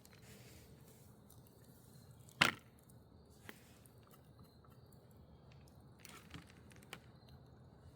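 A single sharp knock about two and a half seconds in, then a few faint taps, over a low steady background.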